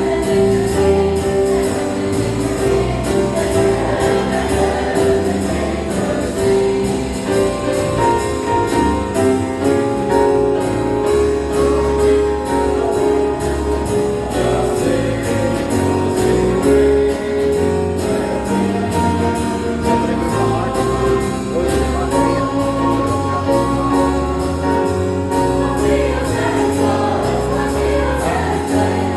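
Choir singing a jazz-style Christmas cantata number with band accompaniment and a steady percussion beat.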